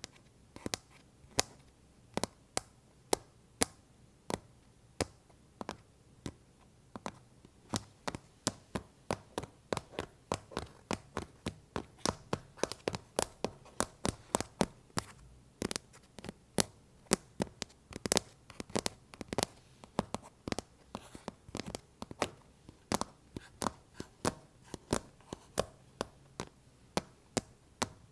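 Tapping on an iPad cover: sharp, separate taps, about one a second at first, then quicker and more uneven, two to three a second, from about seven seconds in.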